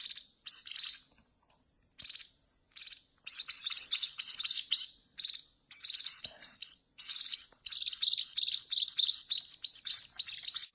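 Munia nestlings begging with rapid series of short, high chirps while being hand-fed. After a brief lull the chirping becomes almost continuous, then stops abruptly at the end.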